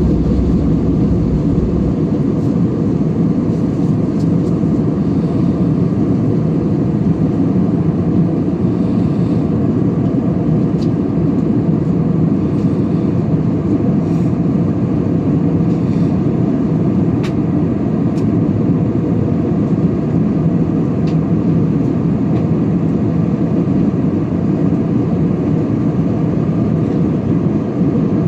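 Steady cabin noise of an Airbus A320 in flight: an even low rush of engine and airflow noise, with a few faint ticks.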